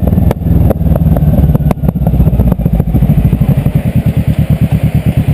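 Kawasaki ER-6N's 649 cc parallel-twin engine running, with a few sharp clicks in the first half, then settling about three and a half seconds in to an even pulsing idle of roughly eight beats a second.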